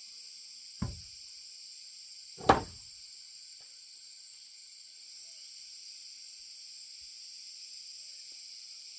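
Two knocks about a second and a half apart, the second one louder, over a steady high chirring of insects.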